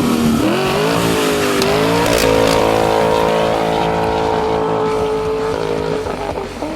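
Car engine revving up quickly and held at high revs for a few seconds, easing off slightly near the end.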